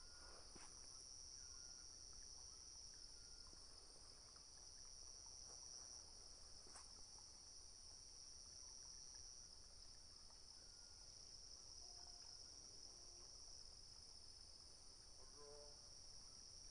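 Faint, steady high-pitched trill, insect-like, with a few faint short chirps near the end.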